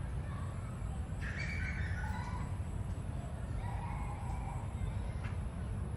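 A few short, harsh bird calls, one about a second in and another near four seconds, over a steady low rumble.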